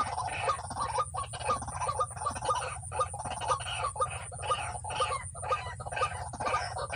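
White-breasted waterhen (ruak-ruak) calls: short clucking notes repeated a few times a second, over a steady low hum.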